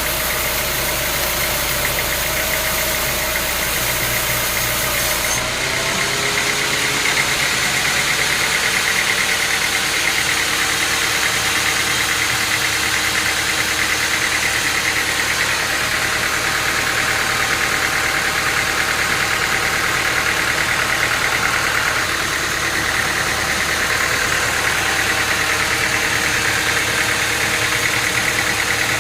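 Sawmill machinery running steadily: an engine-driven saw with a continuous mechanical drone. The sound changes abruptly about five and a half seconds in.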